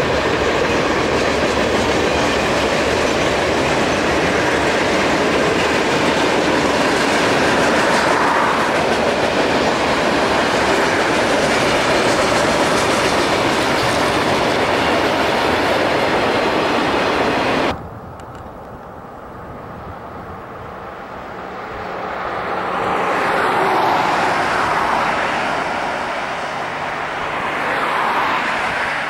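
Freight train cars rolling past close by, steel wheels running on the rails, until the sound cuts off abruptly about two-thirds of the way through. Then a quieter, more distant train rumble swells and fades twice.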